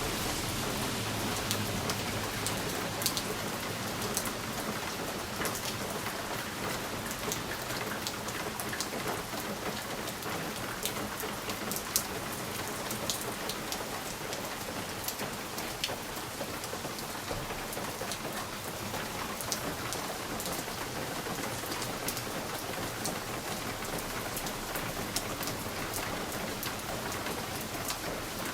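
Steady rain against a window pane, a continuous hiss dotted with many sharp individual drop ticks.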